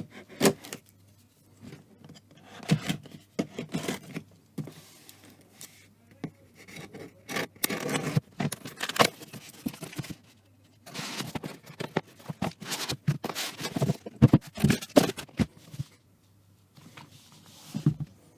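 Laptop packaging being handled by hand: cardboard and wrapping scraping and rustling in irregular bursts, with sharp taps and knocks, over a faint steady hum.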